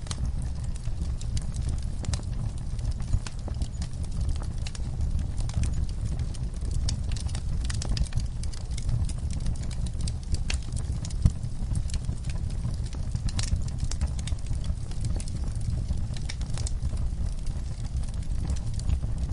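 Wood logs and coals burning in a camp fire pit, crackling and popping continually over a steady low rumble, with one louder pop about eleven seconds in.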